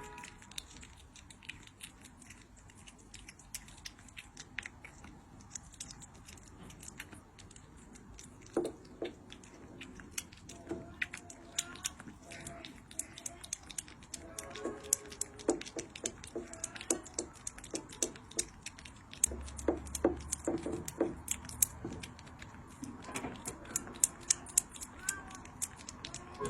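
Cat chewing and crunching its food: a run of quick, irregular crunching clicks that come thicker in the second half.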